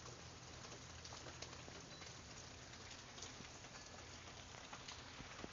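Rain falling steadily, a faint even patter with many scattered drip ticks, over a faint low hum.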